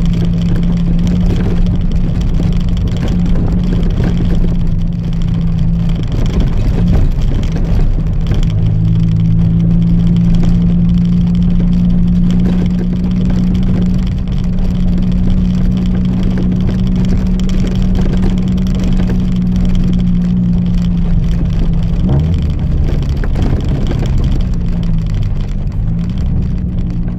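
Chevrolet Celta 1.0 four-cylinder engine sounding through a 4x1 header and an open two-inch exhaust with no mufflers, held at a steady speed. It eases off briefly early on, then holds steady again, and the revs rise and fall near the end.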